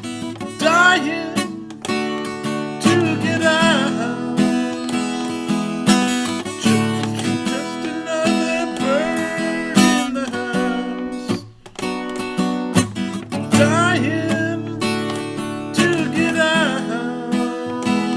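Acoustic guitar strummed steadily under a melody line of sliding, bending notes.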